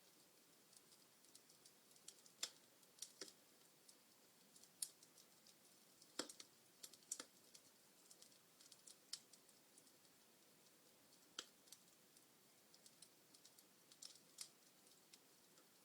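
Wood fire crackling: irregular sharp pops and snaps from burning logs over a faint steady hiss, a few pops louder than the rest.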